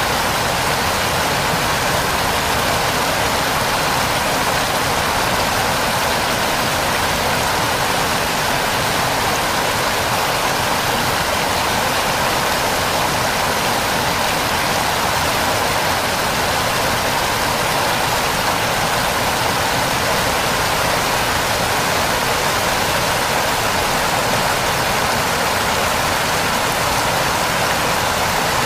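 Waterfall: water falling and splashing, a steady, unchanging rush.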